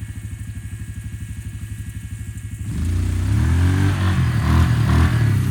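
Motorcycle engine idling with a quick, steady putter, then revved about two and a half seconds in, louder, its pitch rising and falling as the throttle is worked.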